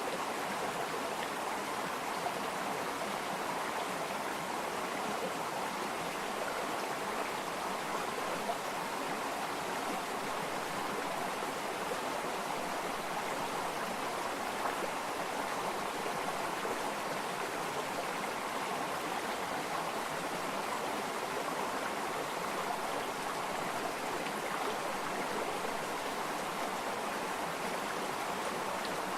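Stream of water flowing over stones, a steady continuous rush of running water.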